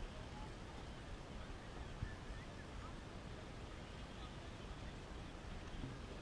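Faint outdoor background noise with a low fluctuating rumble and distant, indistinct voices, with a faint click about two seconds in.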